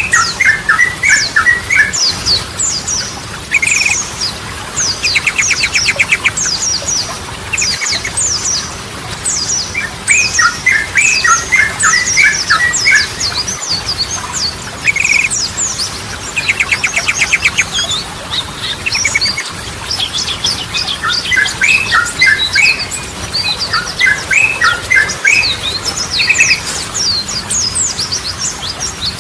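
Sooty-headed bulbul song: repeated bubbly, warbling phrases of quick liquid notes, broken now and then by a short, fast, buzzy rattle. A steady layer of high, thin chirps runs underneath.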